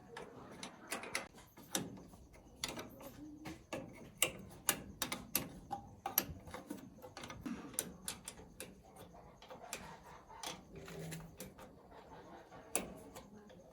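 Irregular sharp clicks and light knocks, at times several a second, from small mechanical handling work.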